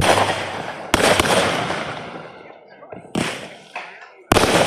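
Fireworks going off in a quick series of about five sharp bangs, each followed by a long fading crackle.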